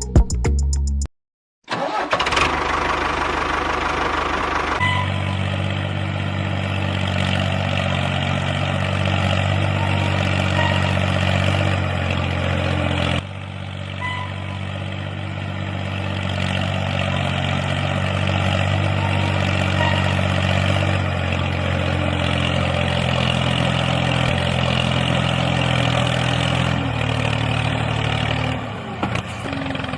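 An engine starting up just under two seconds in, then running steadily at idle, its note shifting a few times.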